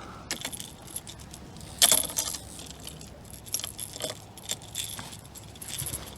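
Fishing rod and reel being handled: light metallic clicks and clinks, with a louder jangling cluster about two seconds in.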